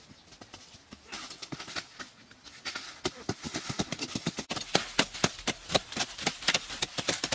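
A quick run of sharp knocks, sparse and faint at first, then louder and closer together from about a second in.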